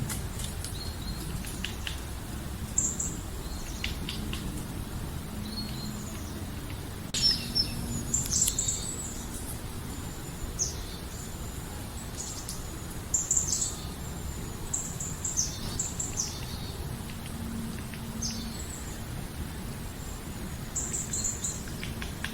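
Wild birds chirping and calling, short high notes coming every second or so and clustering in places, over steady low outdoor background noise.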